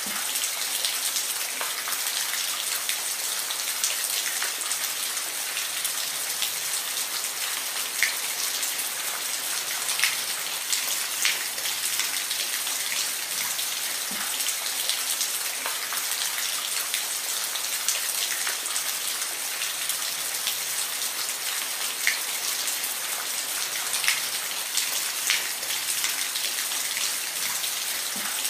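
Steady rain falling, an even hiss with scattered louder drops pattering on a surface.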